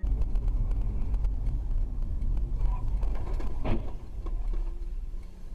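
A car driving: a steady low rumble of road and engine noise, with one short sharp knock about three and a half seconds in.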